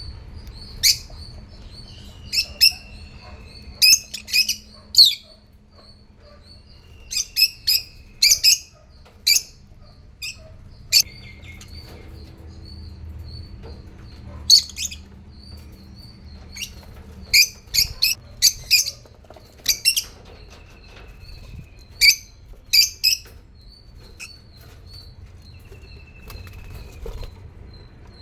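African lovebirds chirping: clusters of short, sharp, high-pitched calls, some with a brief falling slide, over a constant soft twittering and a low background hum.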